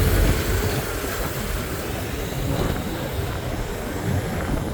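Wind rumbling and buffeting on the microphone over a steady wash of outdoor background noise, with no clear engine note.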